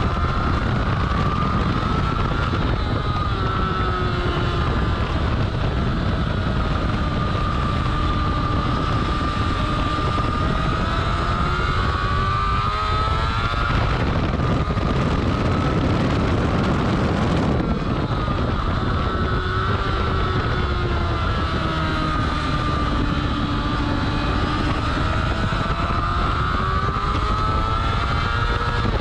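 Yamaha R6 sport bike's inline-four engine at high revs, its pitch rising as it accelerates and dropping back through gear changes and braking, several times over. Heavy wind noise on the tail-mounted camera's microphone rushes under it.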